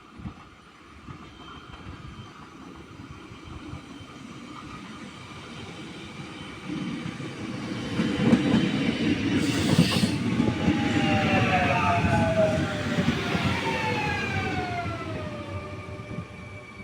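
Train running into the station and slowing: a rumble builds to a peak, then several whines fall steadily in pitch as it brakes and level off near the end. There is a short hiss about ten seconds in.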